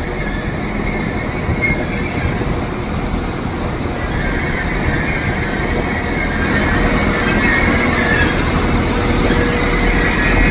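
Passenger train pulling into the platform with a steady low rumble. A high, wavering squeal grows louder from about four seconds in as the train slows.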